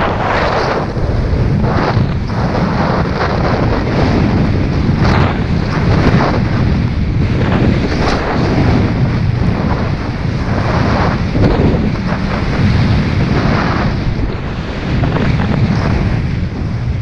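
Wind buffeting the microphone on a fast snowboard run, a loud steady rumble with a swish every second or two.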